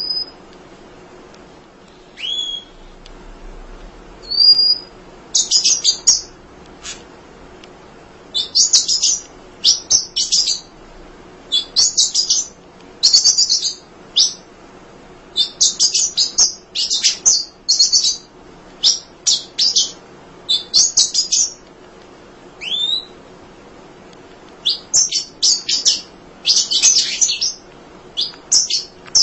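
Emprit (munia) chattering in repeated clusters of rapid, high chirps, with a few single slurred whistle notes between them.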